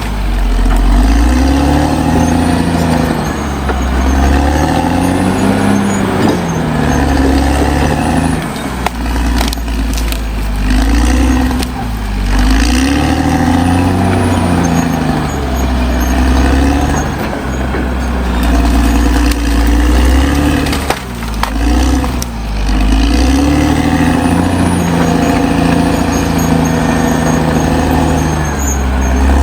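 Caterpillar D6R XL bulldozer's diesel engine working hard, its pitch rising and falling every couple of seconds as the load comes on and off.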